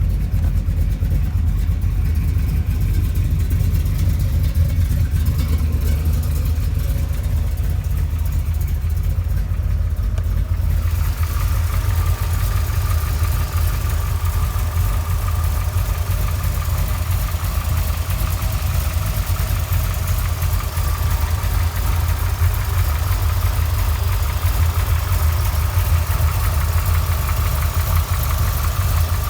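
Chevy 383 stroker small-block V8 with aluminum heads idling steadily, with a deep, even low rumble. About eleven seconds in, a brighter hiss with a faint high whine joins on top.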